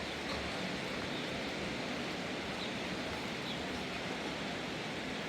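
Steady rushing noise of heavy rain or flowing water.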